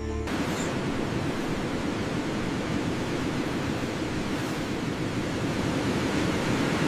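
A steady, even rushing noise with no tones or distinct events, taking over as music cuts out just after the start.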